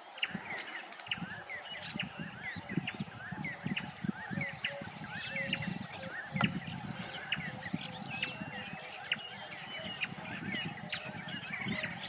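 A bush bird chorus: many birds calling at once, with dense overlapping short chirps and quick falling notes, a low note repeated steadily, and a low rumble underneath.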